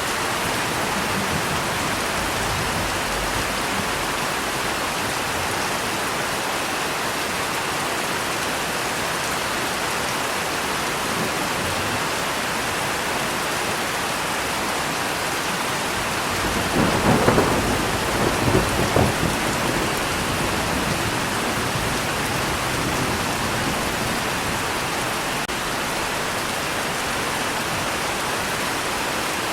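Rain falling steadily, with a roll of thunder a little past halfway that swells for about three seconds and fades back into the rain.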